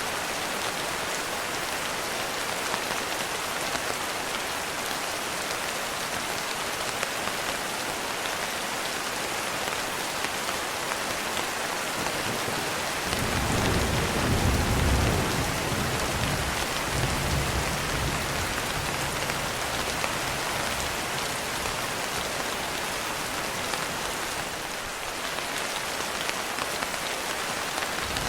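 Steady rain hiss, with a low rolling rumble of thunder coming in about halfway through and dying away a few seconds before the end.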